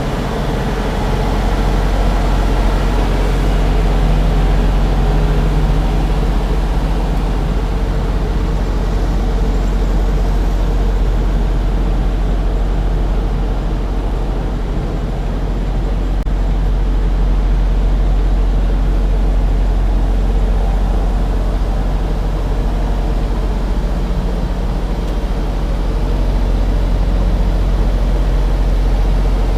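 Semi-truck's diesel engine running steadily at low revs, heard from inside the cab as the tractor-trailer manoeuvres slowly, a constant low drone that swells slightly now and then.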